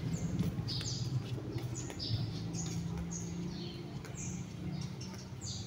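A bird chirping over and over in short, high, falling notes, more than one a second, over a steady low hum.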